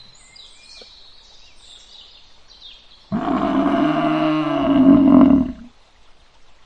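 A donkey braying once for about two and a half seconds, starting about three seconds in. Faint bird chirps come before it.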